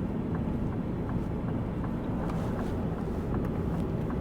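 Steady road and engine noise of a Ford Focus being driven, heard from inside the car, with a few faint light clicks.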